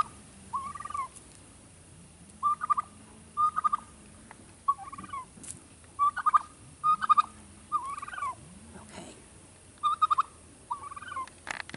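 Domestic fowl giving about a dozen short, repeated calls, singly and in pairs. The owner takes it for complaining, likely about the heat.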